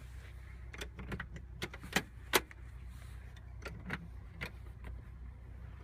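Scattered light clicks and knocks from handling in an SUV's cargo area, with one sharper knock about two seconds in, over a low steady hum.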